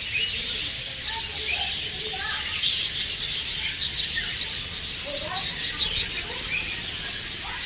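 Many birds chirping and calling at once: a dense chatter of short high chirps and whistles, with a few sharper, louder calls about four and six seconds in.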